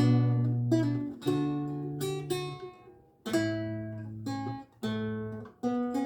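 Renaissance lute with gut strings played solo, chords and notes plucked one after another, each ringing and dying away. The playing thins to a near stop about three seconds in, then picks up again.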